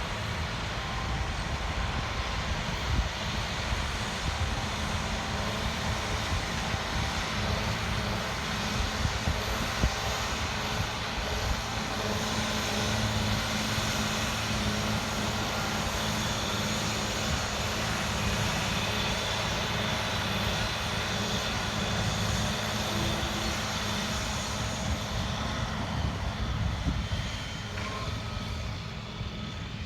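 Large farm tractor's engine running steadily at working speed with a constant low drone.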